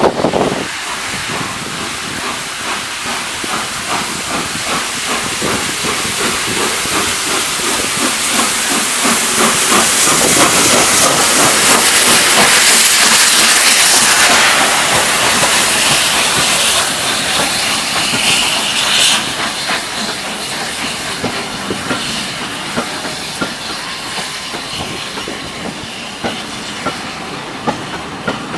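LNER Peppercorn Class A1 4-6-2 steam locomotive departing with its train, letting off a loud steady hiss of steam. The hiss swells to its loudest about halfway through, then slowly fades as the train rolls on.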